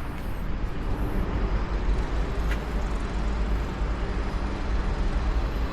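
Steady low rumble of passing road traffic on a town street.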